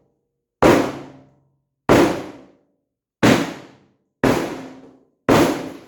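Five hammer blows on the bent frame of a Jeep soft-top door, about one a second, each a loud knock with a short ring. The blows are being used to straighten the frame, which is propped up at one end so it can flex down.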